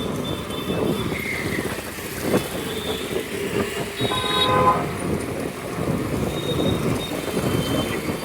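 City road traffic heard from a moving scooter: a steady rush of road noise with vehicle horns honking, one loud horn blast about four seconds in and fainter horn tones later.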